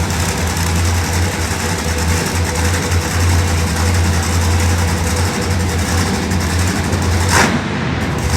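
A heavy engine idling steadily, with a dense haze of background noise. A brief sharp noise comes about seven seconds in.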